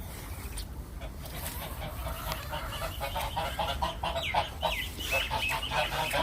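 A flock of chickens clucking, growing busier from about two seconds in, with a few high, falling calls in the second half.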